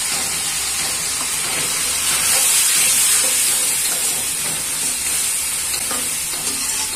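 Masala paste of onion and freshly added chili and turmeric powder frying in hot oil in a metal karahi, a steady sizzle that grows louder about two seconds in, while a metal spoon stirs it.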